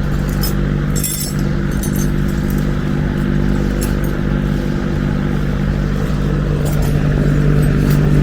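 Large electric fan running, a steady hum with a constant whooshing, and a few short clicks here and there.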